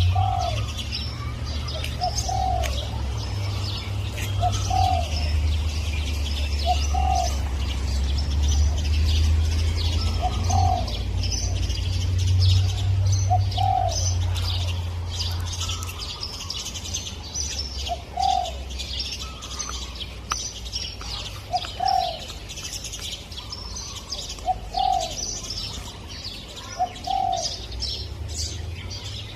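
Spotted dove cooing, one short low coo about every two seconds, over the steady high chirping of other small birds. A low rumble sits under the first half and fades out about halfway through.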